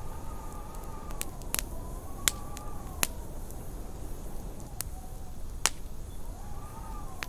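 Wood fire crackling with sharp, scattered pops over a low rumble, while wind howls outside as a faint whistle that wavers up and down in pitch.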